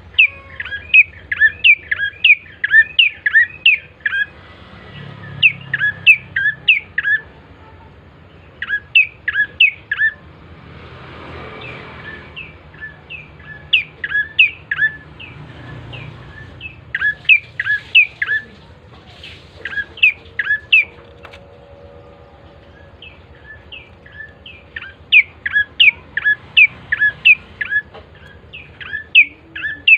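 Olive-backed tailorbird (prenjak coki) calling: sharp, rapid chirps repeated several times a second in bursts, with pauses of a few seconds between bouts.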